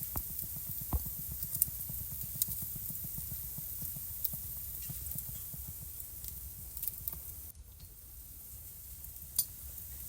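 Wood fire burning in a fireplace: a low steady rumble of flames with scattered sharp crackles and pops, the loudest about one and a half seconds in and another near the end.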